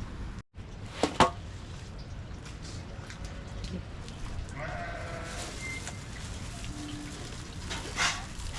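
A sheep bleats once, about halfway through, over a steady background hiss. Two sharp knocks come about a second in.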